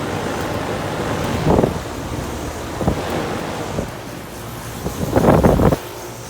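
Outdoor central air conditioner condenser units running with a steady low hum, overlaid by gusts of wind buffeting the microphone, the strongest about five seconds in.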